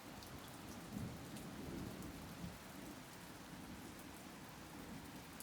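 Steady moderate rain falling, with scattered drop ticks and a low rumble about a second in.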